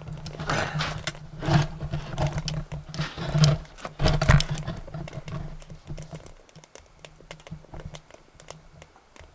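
BioLite Basecamp wood stove burning twigs: the wood crackles and snaps over the low, steady hum of its built-in fan. There are a few louder knocks in the first half, and the sound quietens in the last third.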